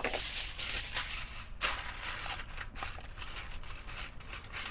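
Irregular rustling and crinkling of something being handled, with a short break about one and a half seconds in.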